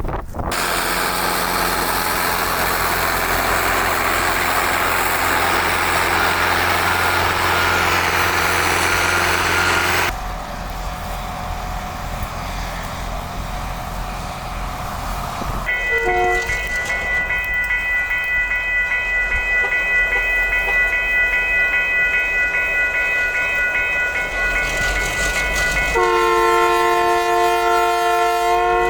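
Train running with a steady rumble and rush of noise, which changes abruptly a couple of times. Near the end its horn sounds a chord of several tones for about three seconds.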